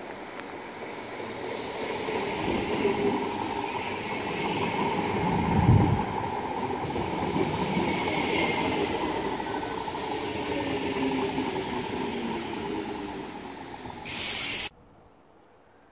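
Electric multiple-unit passenger train pulling into the platform, its running and wheel noise building to a peak about six seconds in and then easing as it slows. A brief loud rush of noise comes just before the sound cuts off abruptly.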